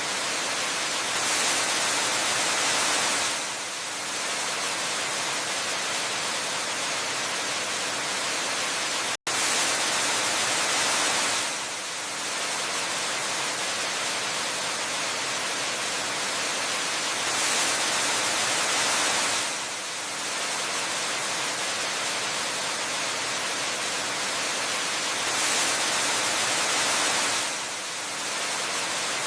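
Steady rushing noise of falling water, as from a waterfall. It swells louder about every eight seconds, and it cuts out for an instant about nine seconds in.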